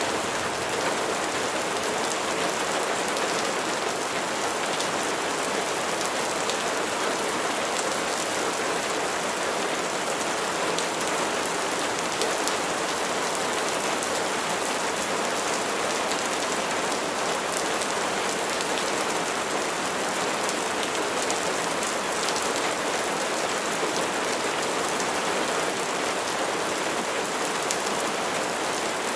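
Steady heavy rain falling on surfaces, a dense constant hiss with many small drop ticks, no change in intensity.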